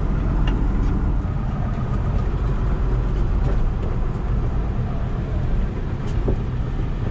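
Vehicle engine running steadily while driving along, a continuous low rumble with road noise.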